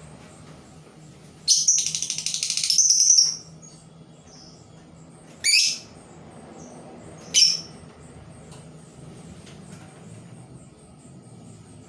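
A caged labet songbird kept as a lure bird calling: a loud, rapid trill of about two seconds, then two short, sharp single calls about two seconds apart.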